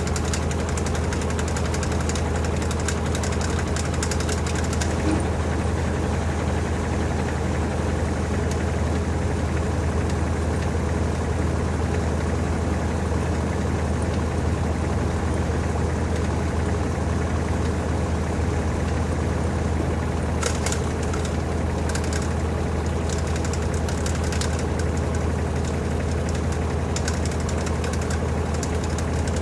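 LG TurboDrum WT-R852 top-loading washing machine running steadily with a low, even hum, its drum spinning out a full load of bedding in the final spin.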